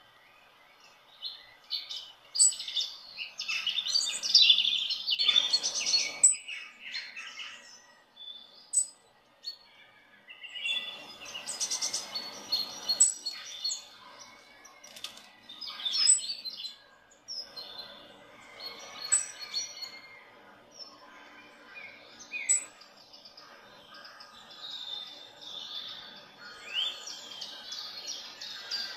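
Small birds chirping and twittering, with a short high note repeating every few seconds.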